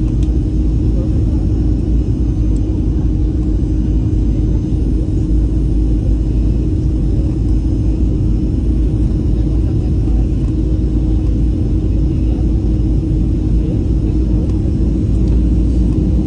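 Airliner cabin noise during landing: a steady, loud rumble of engines and airflow heard from inside the passenger cabin, with a constant low hum running through it.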